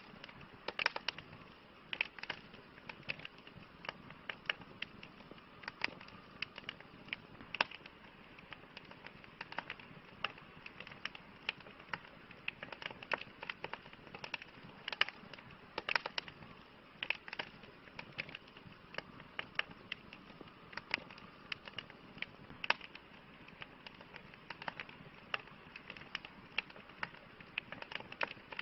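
Wood fire crackling: frequent, irregular sharp pops and snaps over a soft, steady hiss of burning.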